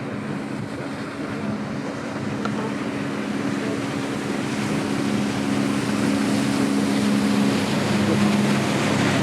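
A boat's engine droning steadily with a low hum, under the rush of water and wind, growing gradually louder as it draws closer.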